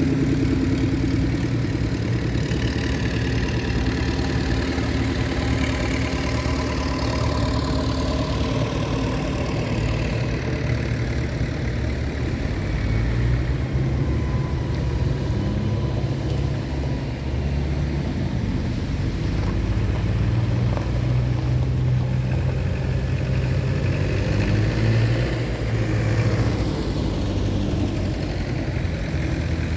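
Tractor engines running steadily, with a couple of slow rises and falls in pitch as tractors go by.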